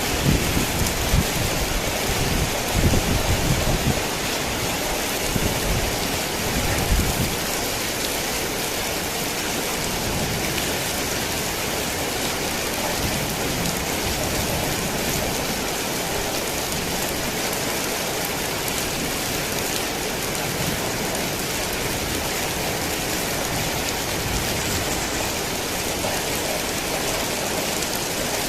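Heavy rain falling steadily in a dense, even hiss. Low rumbles of thunder come and go through the first several seconds, then just the rain.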